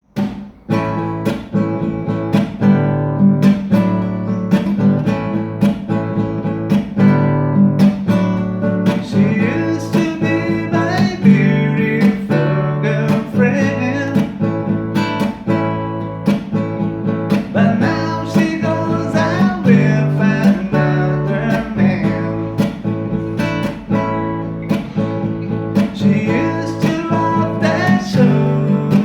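Music: an acoustic guitar playing a steady rhythmic accompaniment, with a wavering melody line joining about nine seconds in.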